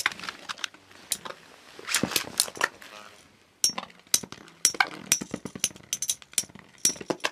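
Metal Beyblade spinning tops clashing in battle: a quick, irregular run of sharp metallic clicks and clinks, some ringing briefly, with a short lull about three seconds in.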